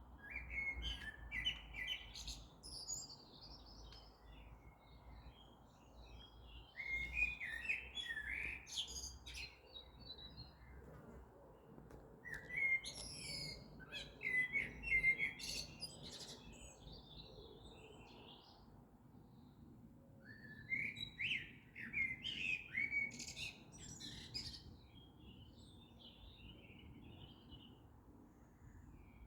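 Morning birdsong: quick, chirpy songbird phrases in spells of a few seconds with short pauses between, over a faint low background rumble.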